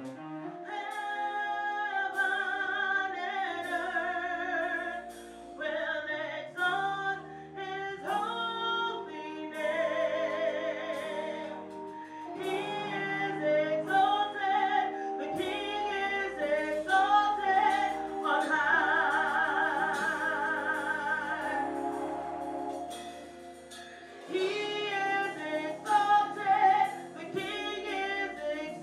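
Gospel singing with wavering held notes over an instrumental accompaniment with a steady percussive beat.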